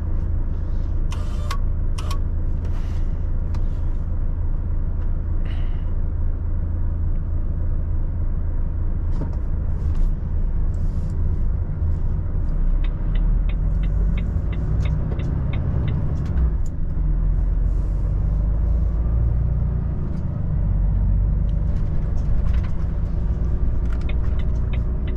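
Semi-truck engine running at low speed, heard from inside the cab as a steady low rumble. Twice for a few seconds the turn-signal indicator ticks at an even pace of about three clicks a second.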